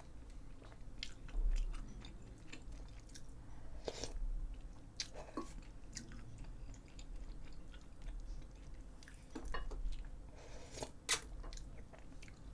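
A person chewing food close to the microphone, with scattered small mouth clicks and ticks.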